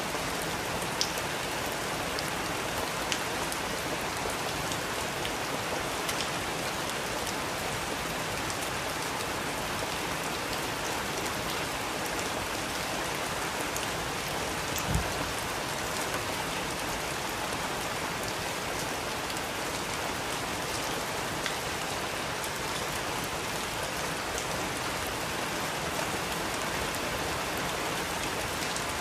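Steady rain falling, with scattered drops ticking on a surface and a single low thump about halfway through.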